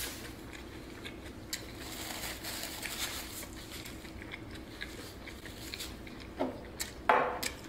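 Close-miked chewing of a burrito and tortilla chips, with scattered crisp crunches and wet mouth sounds. A louder short sound comes near the end.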